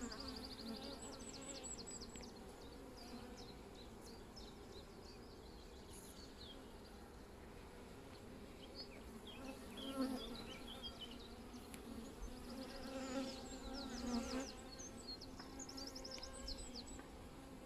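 Honeybees buzzing in a steady hum around an opened hive during a frame inspection, swelling briefly about ten seconds in and again a few seconds later.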